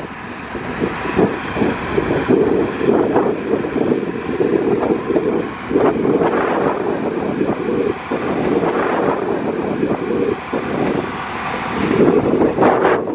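Heavy diesel earthmoving machinery running steadily with a deep, rumbling engine note, with wind buffeting the microphone.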